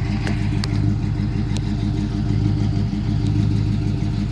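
1984 Chevrolet C10 Silverado's 305 V8 idling steadily, with a few faint clicks over it.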